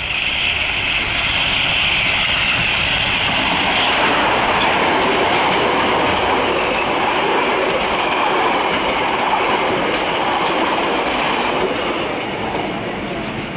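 A train running, a loud steady noise of wheels on rail, cutting off suddenly at the end.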